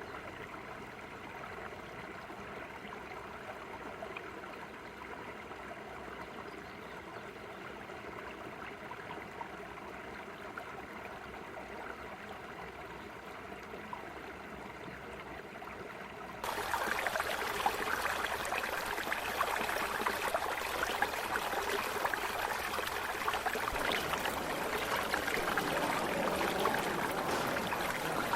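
Flowing water, a steady rushing and trickling haze. About sixteen seconds in it cuts abruptly to a louder, brighter rush.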